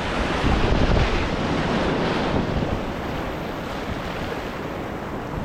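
Rushing whitewater of a rapid with wind buffeting the microphone: a steady rushing noise with a low rumble, slowly growing quieter toward the end.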